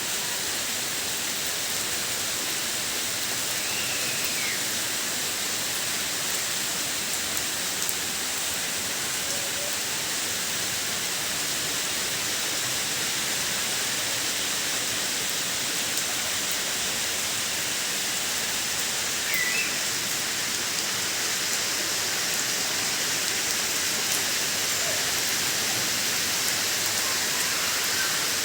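Steady rain falling, an even unbroken hiss. Two faint short chirps stand out briefly, once early on and once midway.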